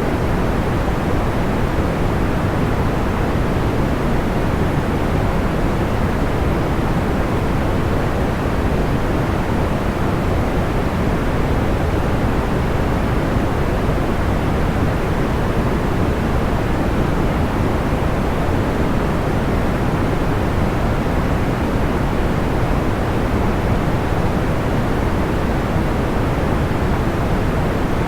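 Steady sleep noise, deep and even, with most of its weight in the low end and no crackles or pops standing out.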